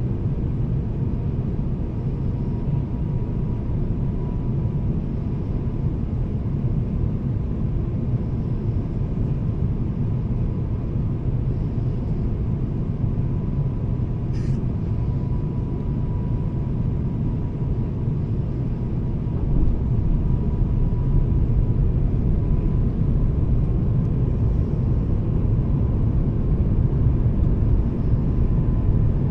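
Cabin noise of an Airbus A350-1000 in flight: a steady rumble of airflow and engines with a faint steady whine. There is a short click about halfway through, and the rumble grows louder and deeper about two-thirds of the way in.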